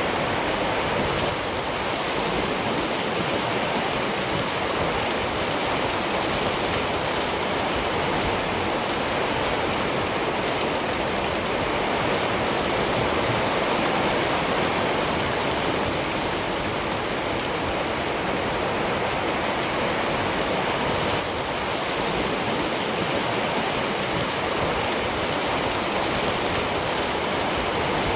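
Steady rain falling, a dense, even hiss of drops with no thunder.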